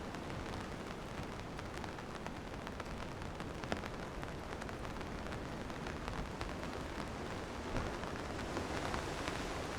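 Steady rain falling, with many close raindrops ticking sharply throughout.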